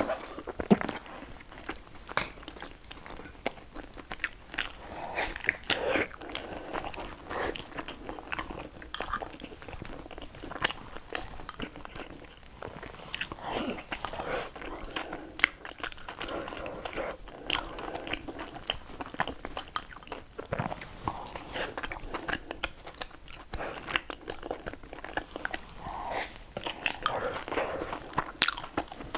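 A person biting and chewing mouthfuls of food, with many irregular sharp clicks throughout.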